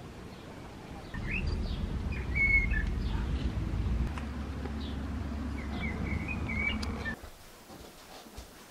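Small birds chirping and trilling over a low steady outdoor rumble. The rumble and birdsong cut off suddenly about seven seconds in.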